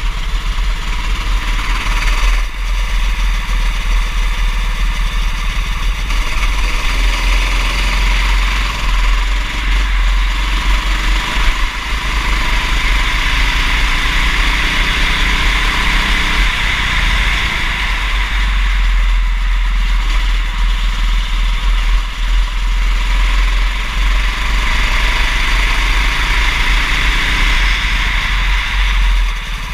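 Go-kart engine running through a race, its pitch slowly rising and falling as it accelerates and backs off, under a steady low rumble and hiss.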